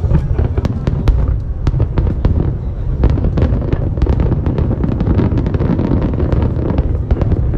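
Aerial fireworks going off in quick succession: many sharp cracking bangs, several a second, over a continuous low rumble of bursting shells.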